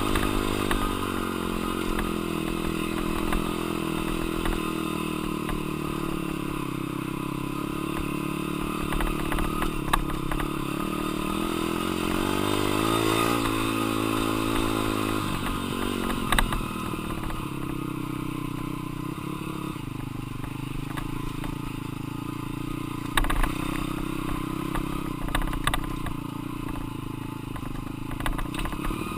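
Dirt bike engine running hard while ridden, its pitch rising and falling as the throttle opens and closes and the gears change. A few sharp clattering knocks come over the engine sound.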